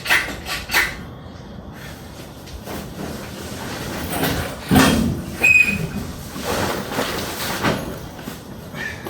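Engine hoist (cherry picker) being worked to draw the engine out of the car: a few sharp clicks at the start, then scraping and clunks with a brief high squeak about five and a half seconds in.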